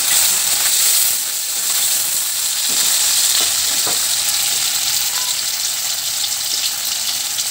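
Paneer cubes frying in hot mustard oil in a kadai: a steady sizzle, with a few faint crackles around the middle.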